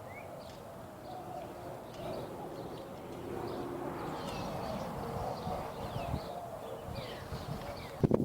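Small birds chirping repeatedly, short quick falling notes, over a low steady outdoor rumble that swells slightly a couple of seconds in.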